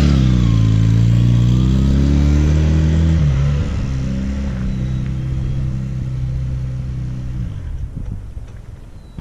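Motorcycle engine pulling away under power, its note climbing and then dropping about three and a half seconds in, as at a gear change. After that it steadily gets quieter and fades out.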